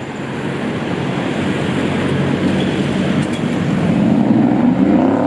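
City street traffic: a steady rush of passing vehicles that grows louder toward the end as an engine's note rises.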